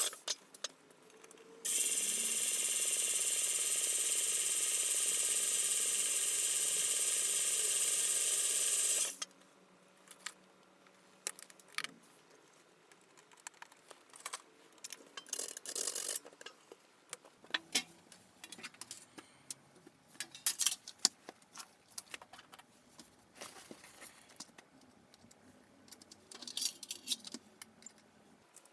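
A small electric power tool's motor runs steadily for about seven seconds, then stops abruptly. After it come scattered light clicks and scrapes of metal parts being handled.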